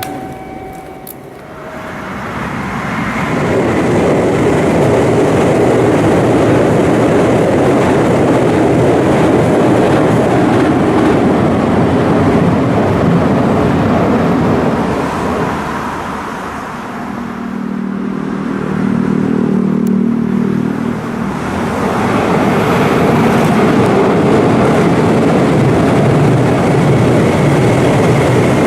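Meitetsu 2000 series μSKY eight-car electric train passing at speed: a loud rush of wheels on rail that builds over the first few seconds, dips briefly with a low hum about two-thirds of the way through, then swells again.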